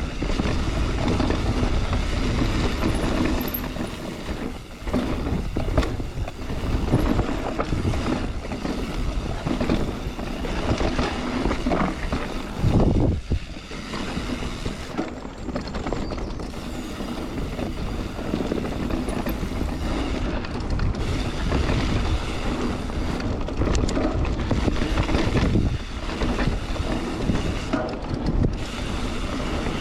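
Mountain bike ridden along a rough trail: a continuous rattle and clatter of the bike over the bumpy ground, with frequent sharp knocks and a steady low rumble of tyre noise.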